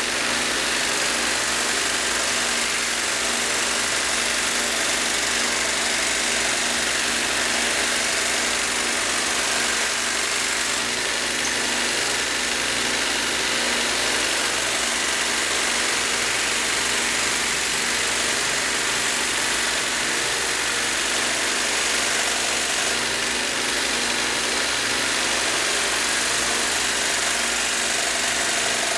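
Belt grinder running steadily, a fine 15-micron film belt on it, with an even hiss over a low motor hum.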